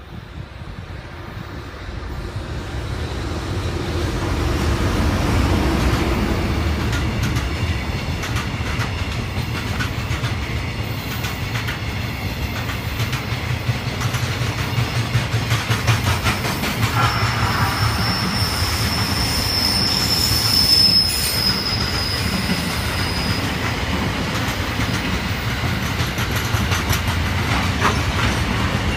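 A JR Freight EH500 electric locomotive and its long freight train passing, with a steady rumble and rapid clicking of wheels over rail joints that builds over the first few seconds and then holds. A steady high wheel squeal sounds for a few seconds past the middle.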